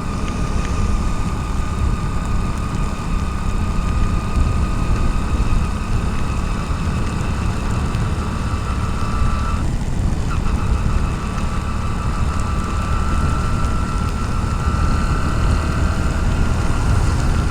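Motorcycle riding in the rain, heard through a helmet-mounted GoPro in its waterproof case: a steady engine and road rumble with a thin whine running over it. The whine drops out briefly about ten seconds in.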